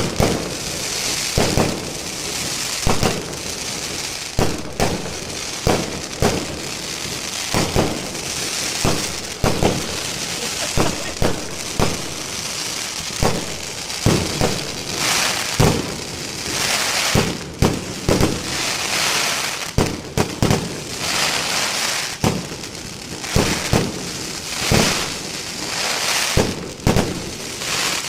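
Fireworks going off repeatedly: sharp bangs every second or two over constant crackling and hissing.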